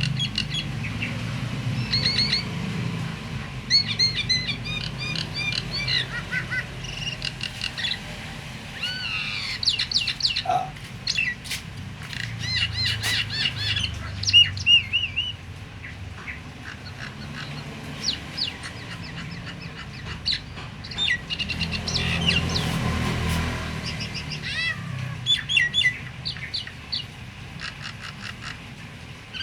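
Starling (jalak) singing a fast, varied string of chirps and short whistles, with a low steady hum underneath.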